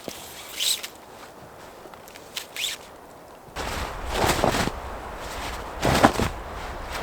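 Crunching in dry, very cold snow, a handful of separate crunches with a squeak in the first two, in the manner of slow footsteps.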